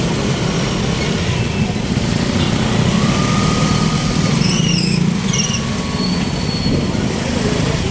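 A motor engine running steadily with a low drone, with a few short, wavering high squeaks about halfway through.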